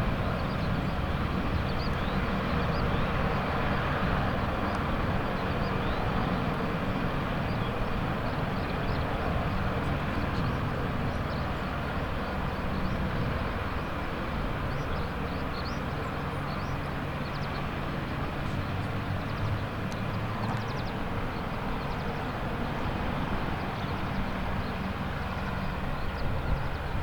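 AH-64D Apache attack helicopters running, a steady mix of turbine noise and rotor beat that holds at an even level throughout.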